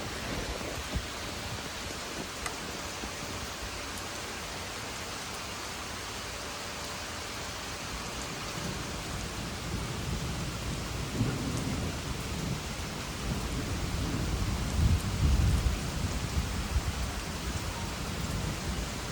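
Steady rain with a long, low roll of thunder that builds from about halfway through and is loudest a few seconds before the end.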